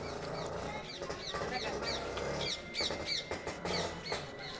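A rapid series of short, high-pitched squeaky chirps, each falling in pitch, from about a second in until near the end, over a steady low hum.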